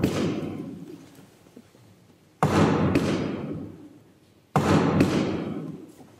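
Loud, sharp knocks in a large reverberant church, each ringing on for over a second: one at the start, one about two and a half seconds in, and two close together about a second before the end.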